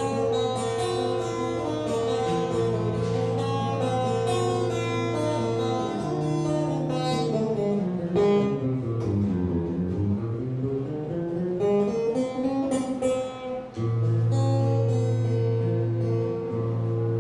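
Instrumental outro of an acoustic rock song, led by guitar: held chords and sustained notes, with the whole sound sliding down in pitch and back up around the middle.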